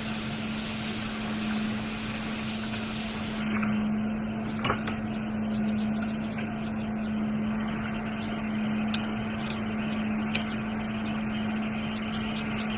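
Steady electric hum of a small motor on the repair bench, with a couple of faint clicks.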